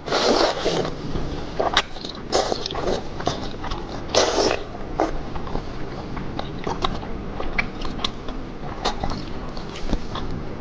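Close-miked biting and chewing of crisp seafood: loud crunches near the start, at about two and a half seconds and at about four seconds, with smaller crackly crunches and wet mouth clicks in between.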